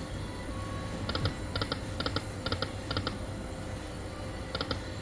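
Poker machine sounding short electronic double beeps, about two a second, in two runs with a brief pause between them.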